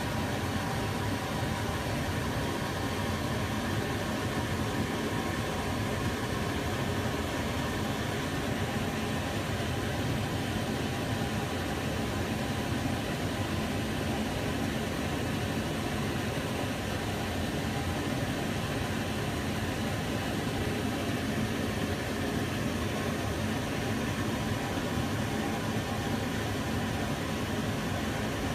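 Kitchen cooker hood's extractor fan running steadily, a constant whooshing hum with a faint fixed tone.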